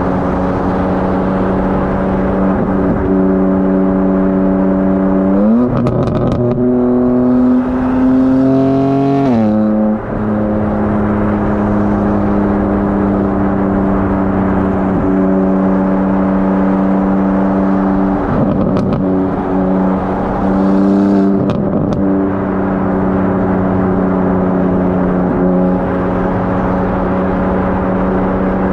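BMW G82 M4 Competition's twin-turbo straight-six, fitted with high-flow cats and downpipes, running at steady revs; about five and a half seconds in the revs jump and climb under acceleration for a few seconds, then fall back at about ten seconds. A few short crackles come through, one near the rev jump and more later on.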